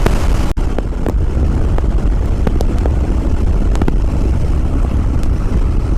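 Wind buffeting the microphone while riding a Yamaha WR250R dual-sport motorcycle at highway speed, with the single-cylinder engine running underneath. There is a brief dropout about half a second in.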